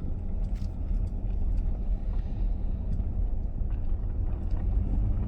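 Steady low rumble of a vehicle heard from inside its cabin, the engine and road running at low speed.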